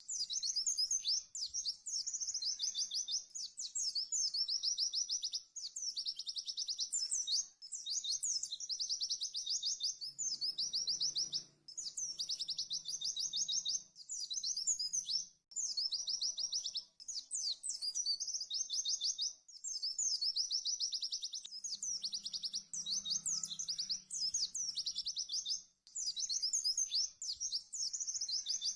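White-eye (pleci) singing its rapid-fire 'tembakan' song: fast trains of high, quickly repeated notes in runs of a few seconds, broken by short pauses.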